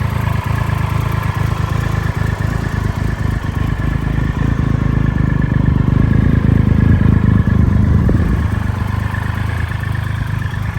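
Triumph Tiger Explorer 1215cc fuel-injected three-cylinder engine running through an aftermarket Wrex exhaust with a carbon can, getting louder for a few seconds in the middle and then settling back to a steady idle.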